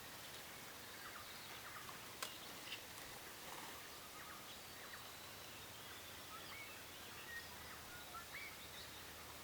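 Faint steady outdoor background noise with scattered short bird chirps, and one sharp click about two seconds in.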